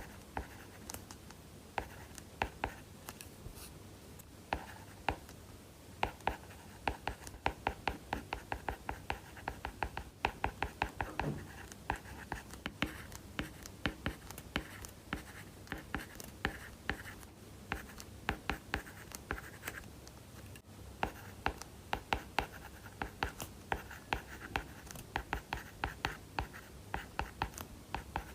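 Apple Pencil with an UNAQUE nib writing on an iPad Pro's paper-like screen protector: quick, scratchy pen strokes and nib taps in dense runs, with a brief pause about two-thirds of the way through.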